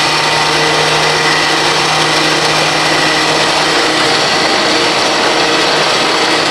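Electric winch motor running steadily under load, a constant whine and hum as it pulls the truck onto the trailer on nylon rope.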